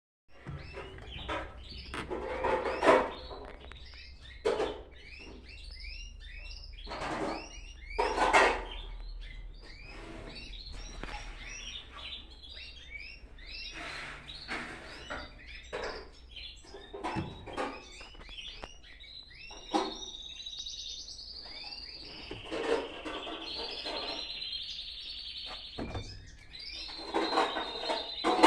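Birds chirping over and over, with a trill near the end, over a low steady hum.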